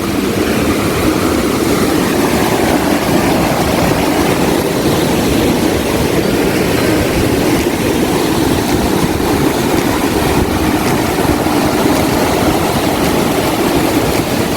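Waterfall crashing down, a loud steady roar of falling water.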